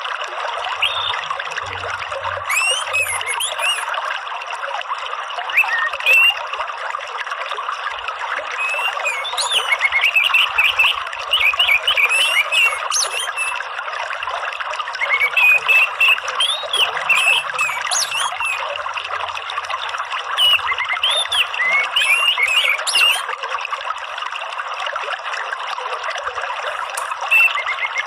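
Running water, a steady trickling flow, with bursts of quick, high chirping calls every few seconds.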